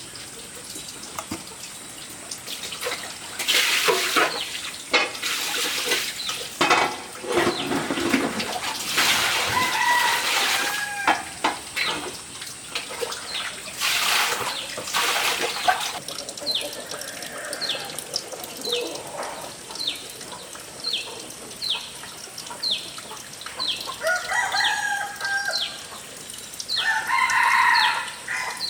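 A rooster crowing twice near the end, over a short high chirp that repeats about once a second. Earlier there are noisy bursts of splashing water.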